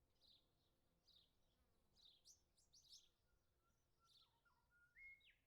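Near silence with faint birds chirping in short high notes, and a faint whistled run of stepping notes near the end.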